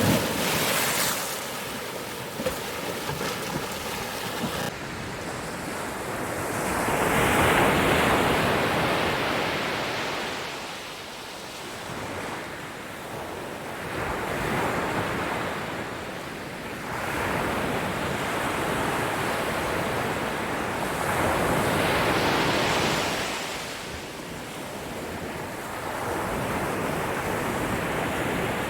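Ocean waves breaking and washing on a shore, the surf swelling and receding every several seconds.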